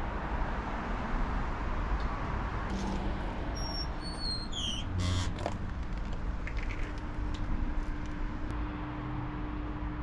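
Steady rumble of distant city traffic. About midway come a short run of high chirps, each lower than the last, then a sharp knock, and a faint steady hum continues after it.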